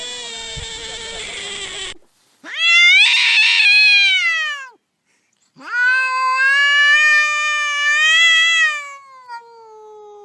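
A pet animal yowling in long, drawn-out calls. One call cuts off abruptly about two seconds in, then come two loud calls that each rise and fall in pitch, the second trailing off into a softer, falling moan near the end.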